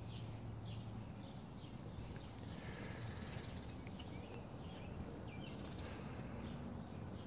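Birds chirping: repeated short chirps, a couple a second, over a steady low rumble.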